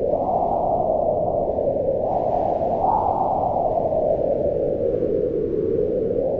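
Howling wind: a steady rushing moan whose pitch rises and falls slowly, peaking about half a second in and again about three seconds in, then sinking lower toward the end.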